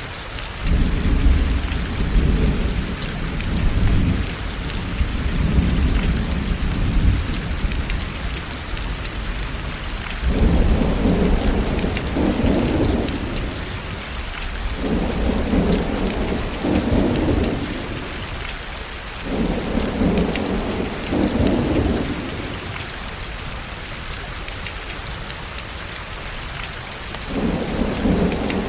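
Steady heavy rain with thunder rumbling again and again, each roll swelling and fading over a few seconds, a long one through the first several seconds and more from about ten seconds in.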